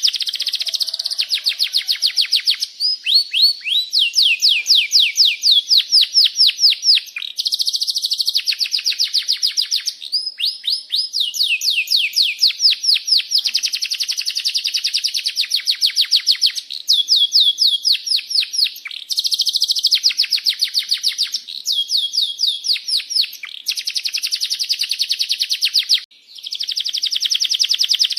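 Domestic canary singing a long, nearly unbroken song of rapid rolling trills, moving from one fast repeated-note phrase to the next every second or two, with one brief break near the end.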